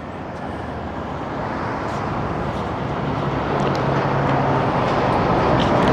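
Vehicle engine and road noise, a steady rumble that grows gradually louder.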